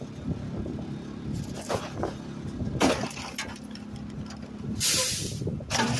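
Garbage truck idling with a steady low engine hum and a few sharp knocks, then a short burst of hissing compressed air about five seconds in.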